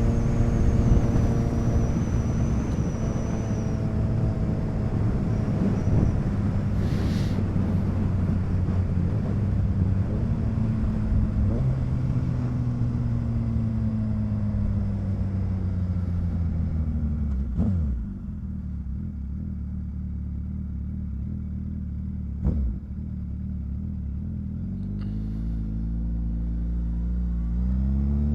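Motorcycle engine heard while riding, running steadily and then slowing with a falling pitch. About two thirds through there is a sharp click, the engine goes quieter, another click follows a few seconds later, and near the end the pitch rises again as it accelerates.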